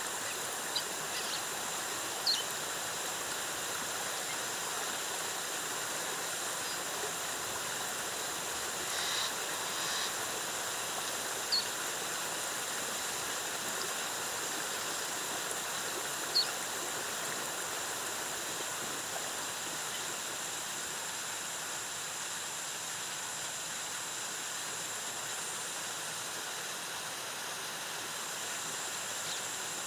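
Waterfall: a steady rush of cascading water. A few short, high chirps cut through it about two, eleven and sixteen seconds in.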